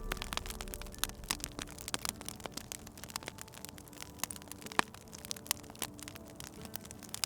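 Wood fire crackling, with irregular sharp pops and snaps. Faint held musical notes sound underneath.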